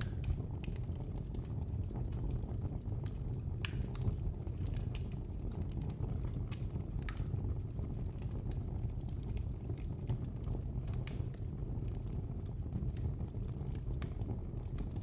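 Wood fire burning in a fireplace: a steady low rumble of flames with frequent sharp, irregular crackles and pops from the burning wood.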